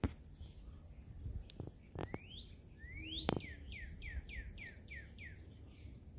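A small bird singing: two rising whistled notes, then a quick run of about eight falling notes at roughly four a second. A few short clicks fall in the first half.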